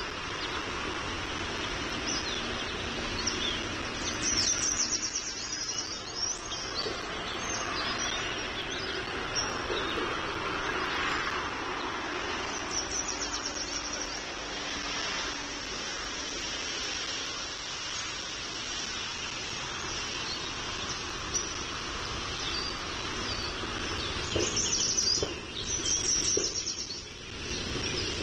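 Birds chirping in short, fast, high trills a few times: about four seconds in, again around thirteen seconds, and most strongly near the end. Under them runs a steady background hiss and rumble.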